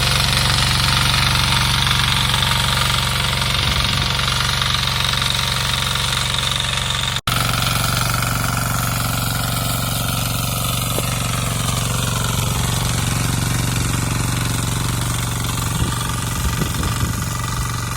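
6 hp Greaves diesel power weeder engine running steadily under load while cultivating. The sound breaks off for an instant about seven seconds in.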